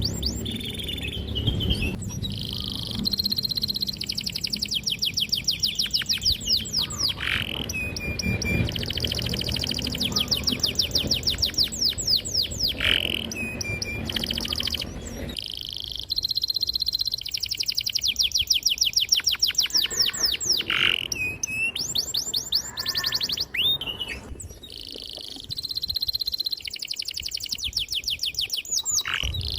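Domestic canary singing a long song of fast, high trills and rolls, run after run with short breaks between them. A low background rumble sits underneath and drops away about halfway through.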